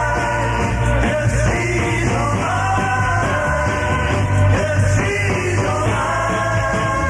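A 1960s British Invasion pop-rock record playing: a lead vocal sings a melody over electric guitars, bass and drums.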